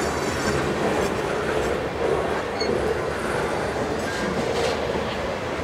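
Freight train of centerbeam flatcars loaded with lumber rolling past: a steady rumble of steel wheels on rail, with occasional faint clicks over the rail joints.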